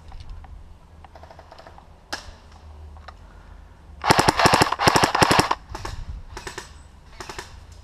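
Airsoft guns firing full-auto bursts of rapid, evenly spaced shots. Two long, loud bursts come about four seconds in, with shorter, fainter bursts before and after.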